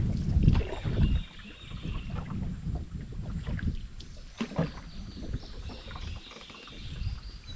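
A canoe moving on a river: paddle and water sounds against the hull, with uneven low thuds, the strongest in the first second or so.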